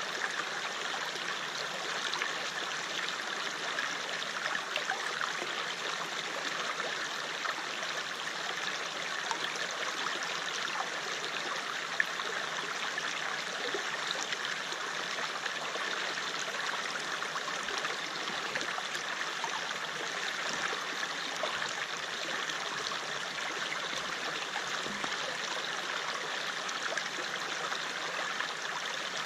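River water flowing over rocks: a steady rushing and burbling with fine splashes, even throughout.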